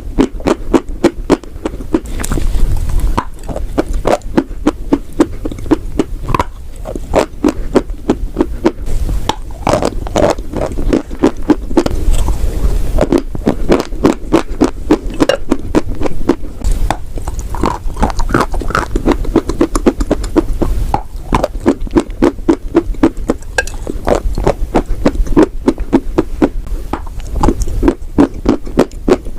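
Close-miked chewing of chalk and clay: rapid crunches, about five a second, with mouth sounds between them.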